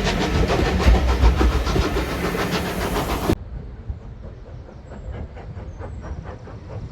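Steam-hauled heritage train running, its wheels clicking rhythmically over the rail joints. About halfway through the sound drops suddenly to a much quieter version of the same clatter.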